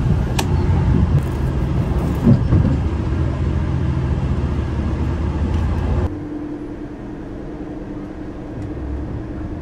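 Cabin noise of a KTR 8000 series diesel railcar: a loud low rumble, with a few light clicks as a bamboo window blind is pulled down. About six seconds in, it cuts suddenly to a quieter, steady hum with a faint steady tone.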